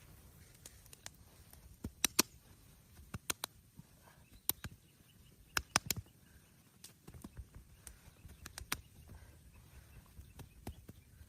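Sharp, irregular cracks and clicks, often in quick pairs or threes, loudest about two seconds and about six seconds in, over a low steady background.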